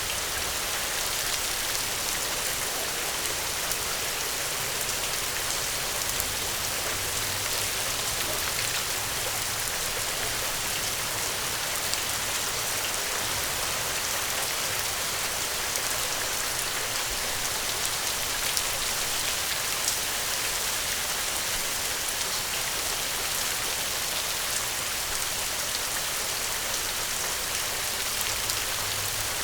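Steady heavy rain, an even dense hiss with a fine patter of drops.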